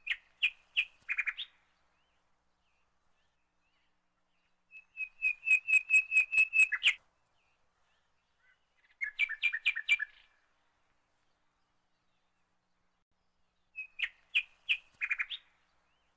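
A small songbird chirping in four short phrases of quick repeated notes with silent gaps between them. The longest phrase, near the middle, is a trill of about a dozen notes.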